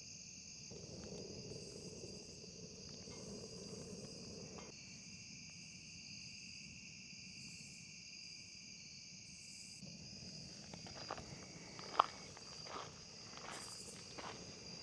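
Steady chorus of insects chirping. Over the last few seconds a run of sharp crunching clicks joins it, the loudest about twelve seconds in.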